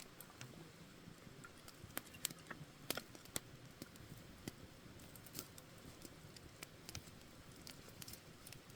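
Campfire wood faintly crackling, with scattered sharp pops at irregular intervals over a soft hiss.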